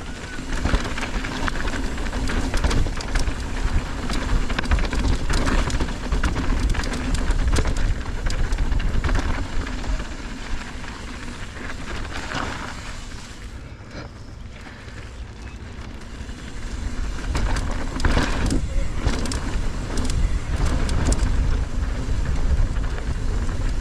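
Downhill mountain bike descending a rocky track: tyres clattering over rocks with many sharp knocks, and wind rumbling on the rider's microphone. It eases off for a few seconds about halfway through, then picks up again.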